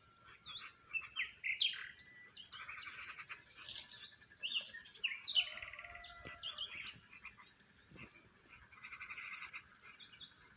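Several birds chirping and singing at once: a busy chorus of short, overlapping chirps and quick trills with no pause.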